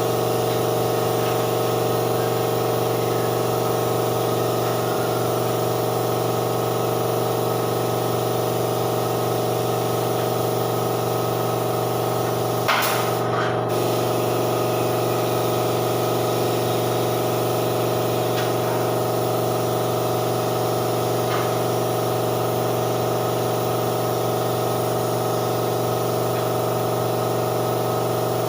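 Paint spray gun hissing steadily while an air compressor hums under it. About halfway through there is a click and the spray stops for a moment, then resumes.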